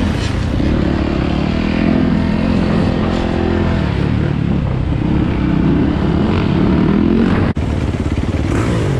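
Dirt bike engine running and revving, its pitch rising and falling, with a brief break in the sound about seven and a half seconds in.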